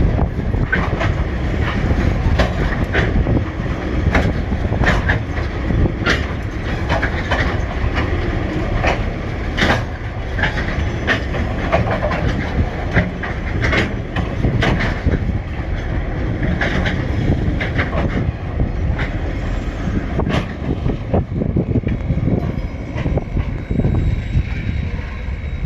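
TasRail coal train rolling past at close range: a steady heavy rumble with frequent, irregular sharp clacks of wheels over the track.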